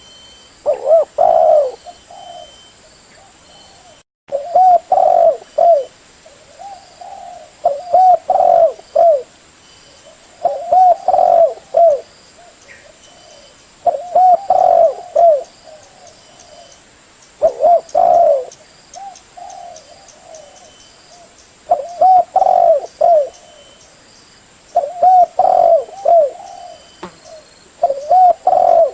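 Spotted dove (Spilopelia chinensis) cooing: a phrase of a few low, rolling coos about every three to four seconds, about nine phrases in all. The sound drops out for an instant about four seconds in.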